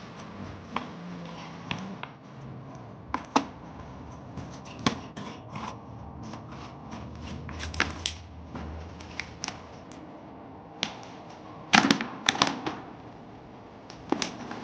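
Irregular sharp clicks and light clatter of small hard objects, with a denser, louder cluster about twelve seconds in.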